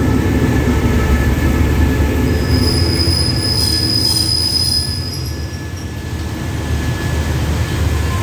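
Passenger carriages of an express train rolling slowly past along the platform as the train brakes to a stop, with a steady low rumble. A high, steady brake squeal rises about two seconds in and dies away after about five and a half seconds.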